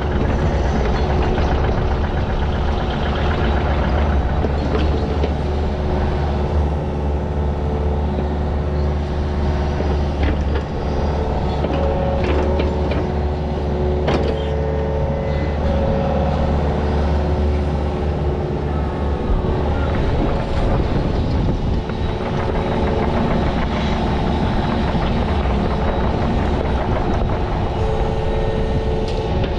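Heavy equipment engine running steadily under work. Its deep low rumble drops away about two-thirds of the way through while the engine keeps running, with a few scattered knocks.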